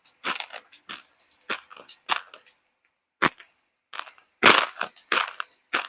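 Close-up crunching and chewing of crisp food, a quick run of irregular crackly bites with short pauses between them.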